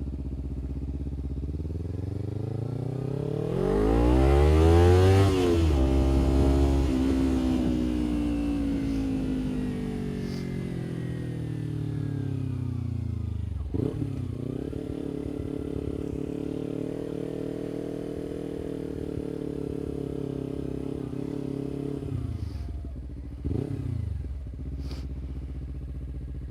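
Kawasaki Ninja 300 parallel-twin engine revving up hard to a peak about five seconds in, then winding down slowly. After a brief break it holds a steady pitch, drops off, gives one short rev near the end and settles to a lower steady pitch.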